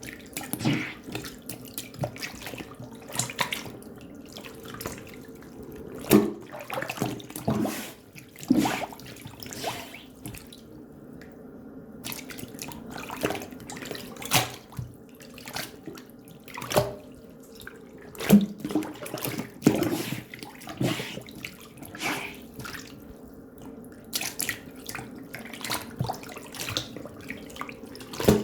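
Water splashing and dripping in irregular bursts, over a faint steady hum.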